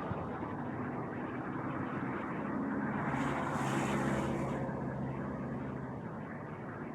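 A motor vehicle passing: its noise swells to a peak about midway and fades, over a steady rumble.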